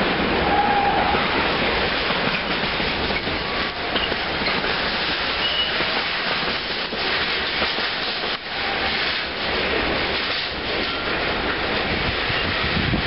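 Container freight train's wagons rolling past on the rails: a steady rumble and rattle of wheels over the track, with faint clicks from the rail joints and a couple of brief thin wheel squeals.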